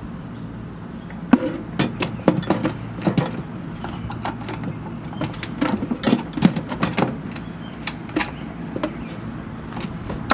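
Irregular knocks and clicks of hard objects being handled, starting about a second in, over a steady low hum.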